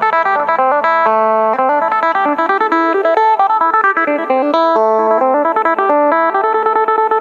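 Electric phin (Isan lute) played through a phaser effect unit: a quick picked melody of many short notes over a held low drone string.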